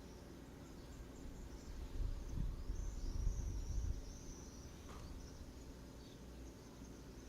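Faint outdoor ambience with a high, wavering chirping call about halfway through, and a low rumble on the microphone for a couple of seconds near the middle.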